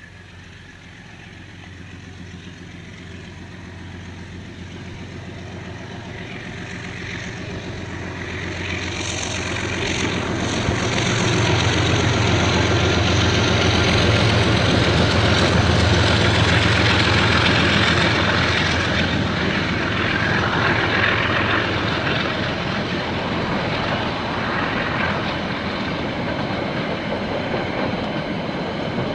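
KiwiRail diesel train drawing closer and passing, growing steadily louder over the first ten seconds or so. The locomotive's low engine drone is loudest a little under halfway through, then gives way to the steady rolling noise of the wagons going by.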